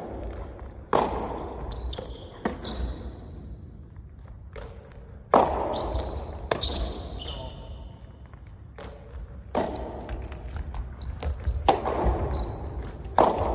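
Soft tennis rally: the soft rubber ball is struck by rackets and bounces on the court, giving sharp hits every one to two seconds with a short echo. The loudest hit comes about five seconds in. Faint voices sound in the background.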